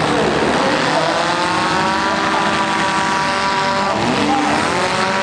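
Demolition derby mini-class car engines revving hard over a dense mechanical din. One engine's pitch climbs about a second in and falls again near four seconds, then briefly rises once more.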